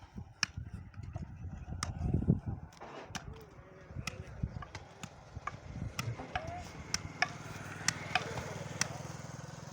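Scattered sharp knocks and clicks over voices in a crowd, with a vehicle engine running steadily in the second half.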